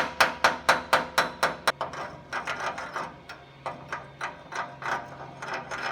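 Mechanical clicking: sharp, evenly spaced clicks at about four a second, then softer, irregular clicks. A steady low hum comes in about two seconds in.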